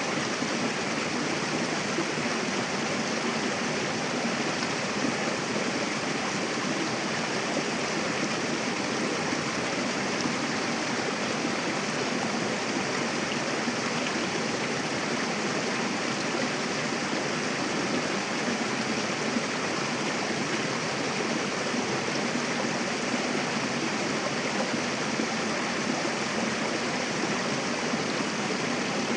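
Mountain river running over rocks, a steady rushing and splashing of water with no breaks.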